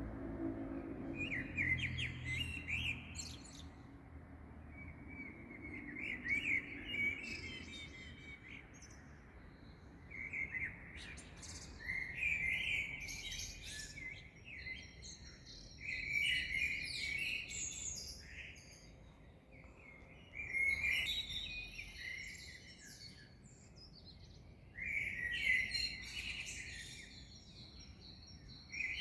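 Several small songbirds singing at dawn, in short bursts of quick chirps and trills every few seconds over a faint background hum.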